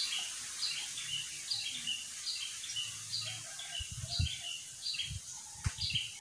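A bird calling, a short high falling two-note chirp repeated about once a second, over a steady high hiss of outdoor background. A few low thumps come in the second half.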